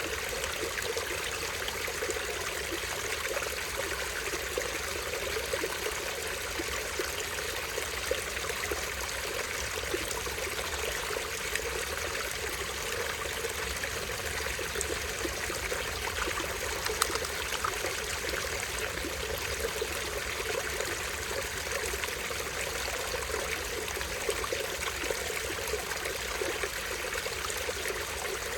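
Small stream of water falling over a tiny waterfall, trickling steadily without a break.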